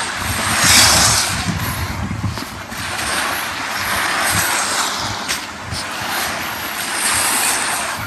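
Small sea waves washing onto a sandy beach, the hiss swelling and falling back every few seconds. Wind rumbles unevenly on the microphone underneath.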